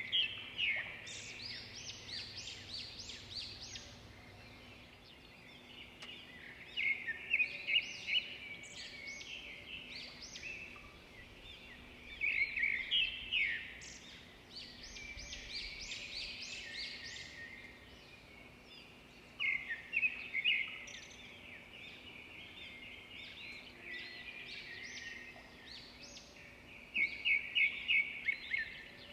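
Birds singing: several overlapping songs of chirps and trills, with a louder phrase of quick repeated notes every six or seven seconds.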